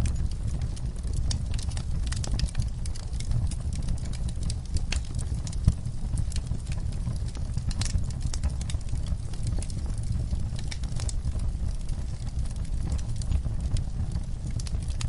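Fireplace fire crackling: irregular small pops and snaps over a steady low rumble of the flames, with one louder pop about six seconds in.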